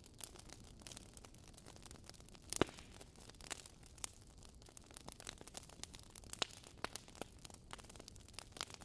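Wood fire crackling in a fireplace: faint, irregular pops and snaps over a soft hiss, with one louder pop about two and a half seconds in.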